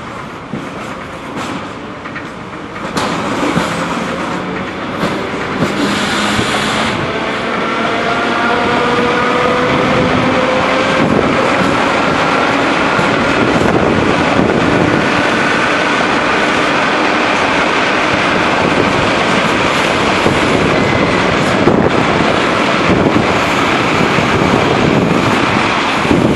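Freight train behind a 2M62U diesel locomotive rolling past, wheels clattering over the rail joints. It grows louder about three seconds in, and pitched tones slowly rise in the middle of the run.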